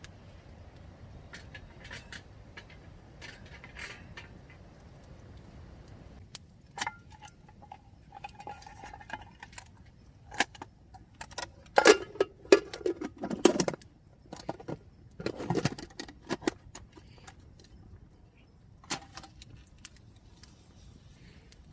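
Scattered metallic clinks and clatters of camp cookware and utensils being handled, sparse at first and loudest and busiest in the middle.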